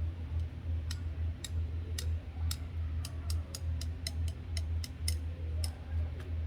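Coffee beans cracking in the roaster, roasted dark: sharp snaps, sparse at first and coming faster from about halfway through, over a steady low hum.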